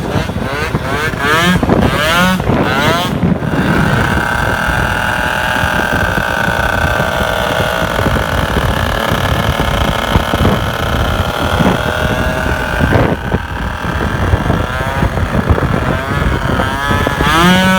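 Tuned 70cc two-stroke scooter engine with a Stage6 MK2 racing kit and expansion exhaust, revved in several quick rises, then held at a steady high pitch for about nine seconds. It backs off about 13 seconds in and revs up again in rising sweeps near the end.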